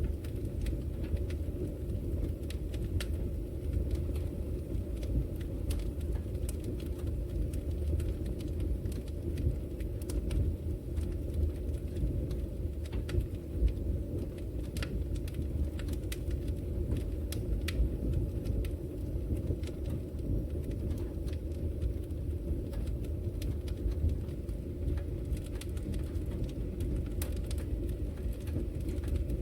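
Wood fire burning in a fireplace: a steady low rumble from the flames, with scattered sharp crackles and pops at irregular moments.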